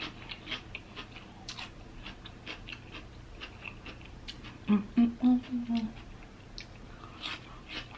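Close-up mouth sounds of a person eating: chewing and lip-smacking clicks, with a short hummed "mm-mm-mm" about five seconds in.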